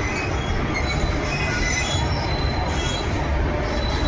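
Train rolling along the track: a steady heavy rumble with short high-pitched squeals of the wheels on the rails scattered throughout.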